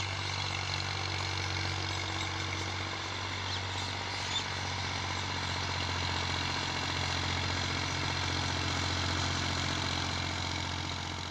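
Massey Ferguson 240 tractor's three-cylinder diesel engine running steadily, with a small click about four seconds in.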